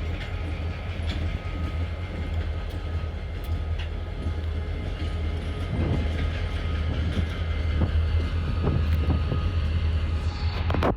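Intermodal freight train cars rolling past: a steady low rumble of wheels on rail with scattered clicks from the wheels and couplers.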